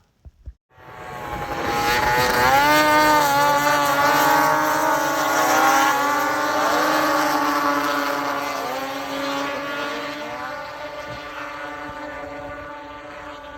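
Several motor engines running together, their pitch climbing about two seconds in, then holding and slowly fading as they move away.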